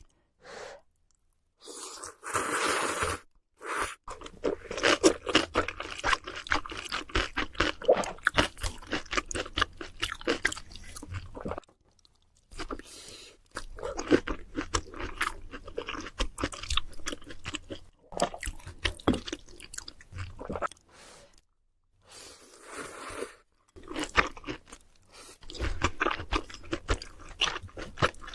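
Close-miked chewing of crunchy fried food, dense runs of quick crunches broken by several short pauses.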